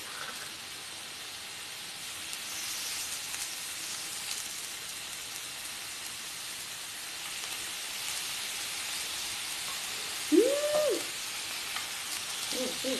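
Pork belly and sausages sizzling steadily in a hot nonstick pan. About ten seconds in, a single short, loud pitched sound rises and falls over the sizzle.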